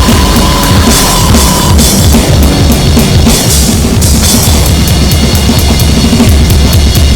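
Harsh noise music: a loud, dense wall of electronic noise over rapid, pounding drum-kit playing, with hissing bursts in the highs. A steady high tone runs at first and cuts off at about two seconds in.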